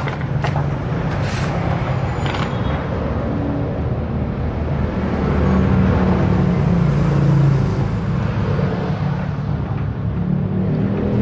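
A motor vehicle engine running steadily, its pitch shifting a little and getting somewhat louder in the middle. A few light knocks come in the first couple of seconds.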